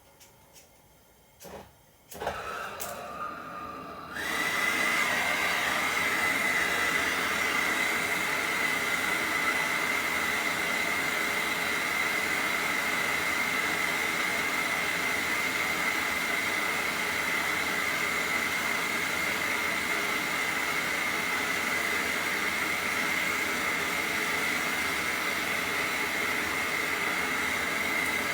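Brazing torch lit about two seconds in, then opened up about four seconds in to burn steadily with a loud hiss and a thin high whistle. It is heating the Schrader charging valve on a refrigerator's line to unsolder it.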